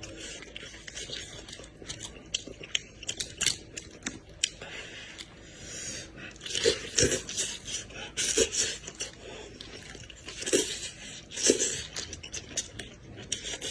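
Close-miked eating: a person chewing and smacking while eating goat head, with many short irregular clicks and wet mouth noises that come in louder clusters about halfway through and again near the end.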